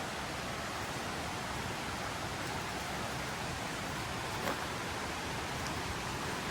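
Mountain river flowing: a steady, even rush of water, with one faint tick about four and a half seconds in.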